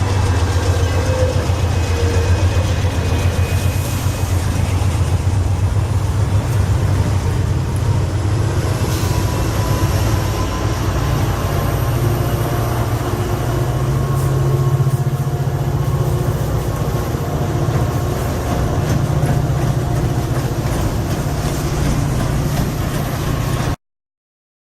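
CSX freight train running past, a loud steady low rumble with a haze of rail noise over it, cutting off suddenly near the end.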